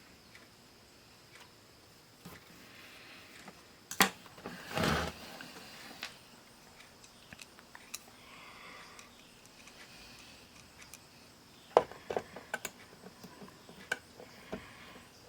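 Bench work on a small electronic device: scattered clicks and knocks of handling, with a sharp click about four seconds in followed by a short scraping rustle, and a cluster of clicks near the end.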